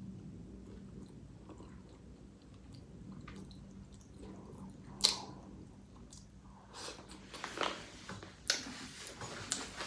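A person chewing food close to the microphone, with wet mouth clicks and smacks that grow louder in the last few seconds. A single sharp click comes about halfway through.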